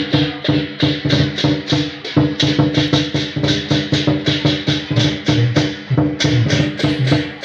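Barongan accompaniment music: fast, even drum and wood-block-like strokes, about four to five a second, over sustained ringing pitched notes.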